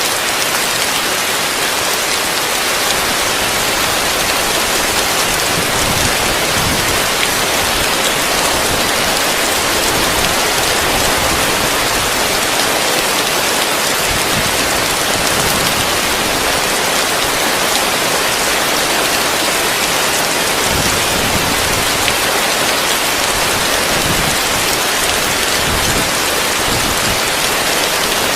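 Heavy rain falling steadily on a roof, heard from underneath it as a dense, even hiss.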